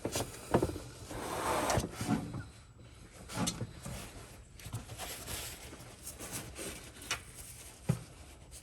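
Scattered light knocks and clicks of hands and tools at work, with a short rustling hiss about a second in.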